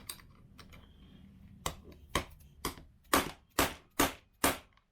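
Seven sharp metal hammer blows, about two a second and growing louder, driving a bearing deeper into a Yamaha YZ125 engine case half.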